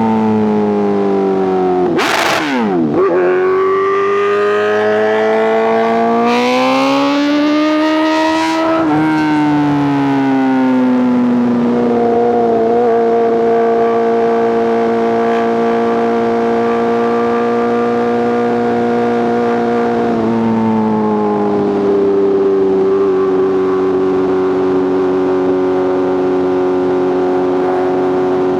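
Superbike inline-four engine and exhaust on the highway: the revs fall, a brief loud rush comes about two seconds in, then the engine climbs in pitch under throttle for several seconds. It drops back at about nine seconds and settles into a steady cruise, easing slightly once more at about twenty seconds.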